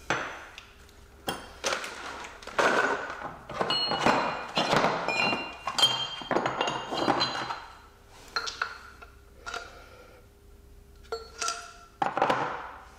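Steel press sleeves and cups knocking and clinking together as they are handled, in a string of sharp knocks with a brief metallic ring, busiest in the first eight seconds and sparser near the end. A faint steady hum runs underneath.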